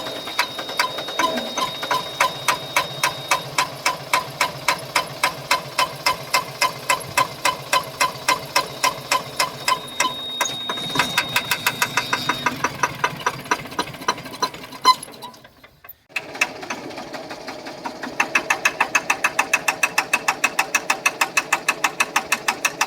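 JCB diesel engine running with a sharp, regular knock about three to four times a second. The sound drops out briefly about sixteen seconds in, then the engine and its knocking carry on.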